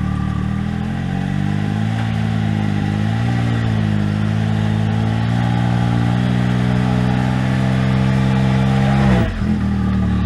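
Side-by-side UTV engine revving up and held at high revs, wavering briefly, then dropping suddenly back to idle near the end.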